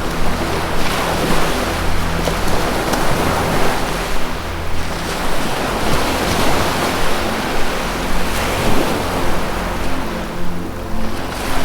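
Ocean surf washing in and out in slow swells, over a low, steady, sustained musical drone.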